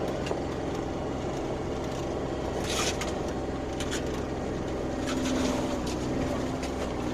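Kawasaki Mule utility vehicle's engine running steadily at low speed, with light clicks and rattles, swelling slightly a little past the middle.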